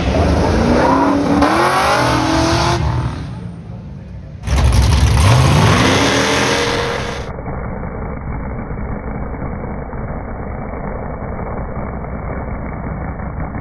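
Race car engines revving and accelerating hard, heard in a few short cut-together takes. The pitch rises and falls in the first few seconds, climbs sharply again after a sudden cut, then gives way to a duller, steady engine drone.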